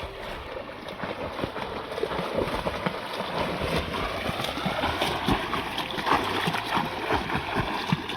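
Lake water splashing and sloshing in a dense run of small splashes, a little louder after the first couple of seconds.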